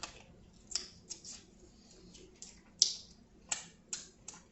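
Close-miked eating sounds: irregular wet clicks and smacks of chewing seafood, the loudest just before three seconds in.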